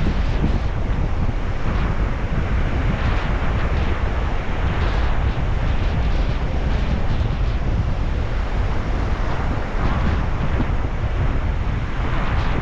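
Sea waves washing in on the shore, swelling every few seconds, with wind buffeting the microphone and rumbling underneath.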